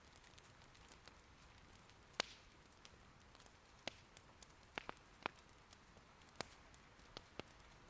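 Wood fire in an irori hearth crackling quietly, with irregular sharp pops; the loudest comes about two seconds in and a cluster follows a couple of seconds later. A soft, steady hiss of light rain lies underneath.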